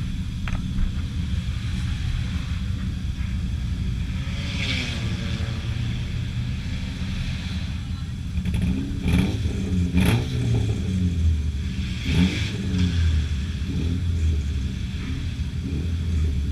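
Junk race cars' engines running and revving on the track, rising and falling in pitch as they pass, with a few sharp knocks or clatters between about 9 and 12 seconds in.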